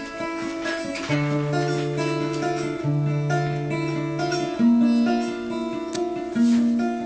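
Acoustic guitar strummed and picked, an instrumental passage between sung verses, with the bass notes changing every second or two.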